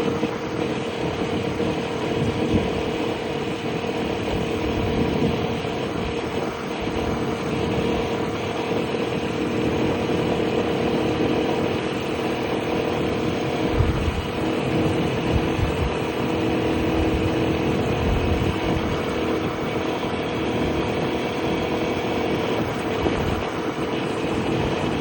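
Piaggio Liberty 125 scooter's single-cylinder four-stroke engine running at a steady, even pitch while riding, with wind rumbling on the microphone now and then.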